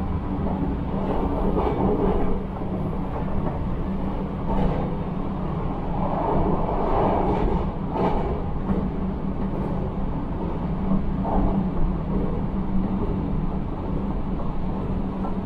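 Inside a Taiwan Railways local electric train running at speed: the steady rumble of wheels on the rails under a constant low hum, with a few faint knocks from the track.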